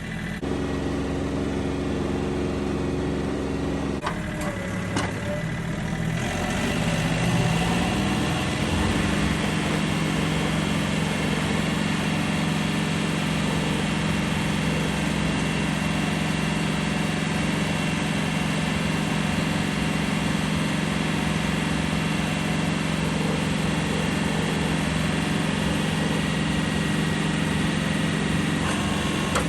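Engine of a snow-clearing machine running, its note shifting up about eight seconds in and then holding steady as it works to push snow.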